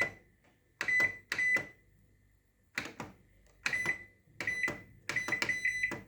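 Cecotec 3D Wave Proclean 5120 Mirror microwave's control panel beeping as its buttons are pressed: a series of short high beeps, each with a tap of the key, spaced out at first and then in a quick run of presses near the end.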